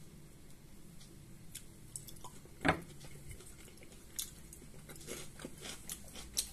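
A person chewing food with the mouth close to the microphone: soft, wet clicks and smacks, with one louder bite or gulp about two and a half seconds in and quicker chewing clicks in the second half.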